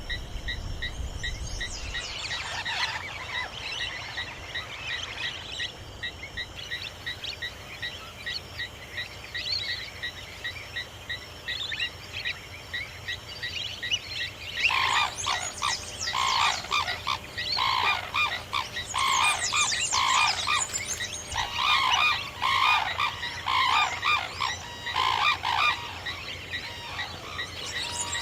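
Insects chirping steadily, joined about halfway through by a long run of short, loud animal calls repeated about twice a second, with a brief break near the middle of the run.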